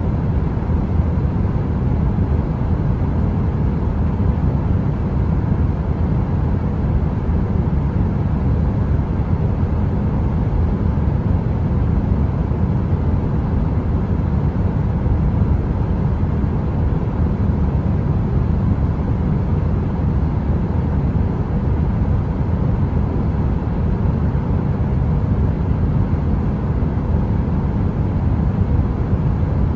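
Steady, low rushing noise of a running heater, even and unchanging, with no crackle or pops.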